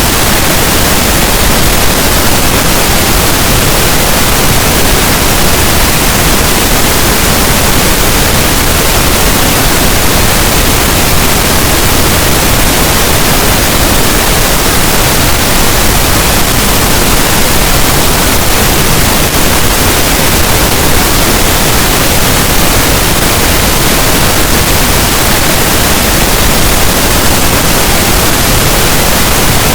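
Steady, loud pink noise: an even, unchanging hiss with no breaks, generated as a sleep masking sound.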